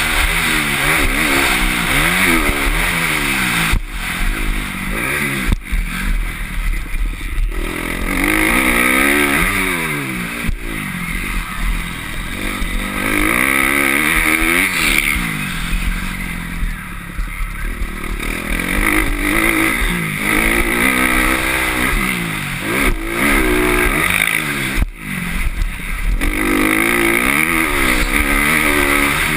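Motocross bike engine revving hard and falling back again and again as the throttle is opened and chopped through the gears, with a few short dips where the power is shut off.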